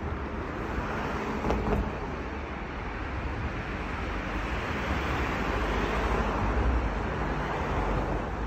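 Road traffic on a city street: a steady wash of vehicle noise that swells as a vehicle passes about six to seven seconds in.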